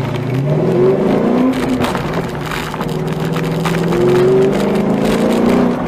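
New Edge Ford Mustang's engine heard from inside the cabin, driven hard through an autocross course: it revs up, drops back and climbs again several times as the throttle is worked between the cones.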